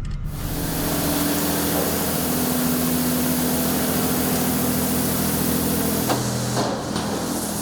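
Touch-free automatic car wash running: a loud hiss of high-pressure water spray starts suddenly and carries on steadily over a low machine hum.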